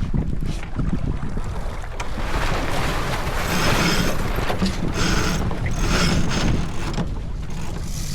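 Wind buffeting the microphone and water rushing along the hull of a J/24 sailboat under way, the rush of water and spray growing louder through the middle.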